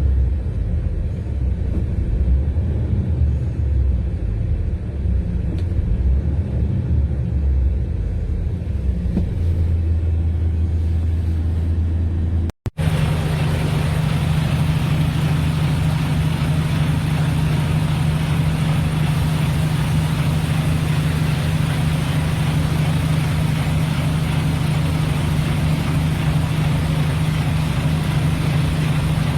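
Diesel engine of an Iveco S-Way 530 tractor unit, a 12.9-litre Cursor 13 straight-six, running at a steady low rumble. The sound cuts out briefly about halfway through, then comes back as a steady, slightly higher-pitched engine hum.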